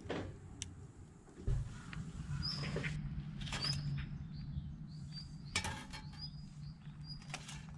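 Scattered crackles and ticks from the embers of a nearly burned-out log wood candle, with short high bird chirps repeating from a few seconds in, over a low steady hum.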